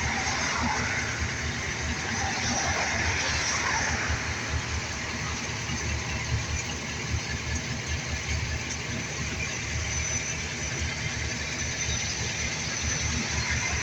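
A motor vehicle running: a steady low rumble of engine with a constant wash of road or traffic noise over it.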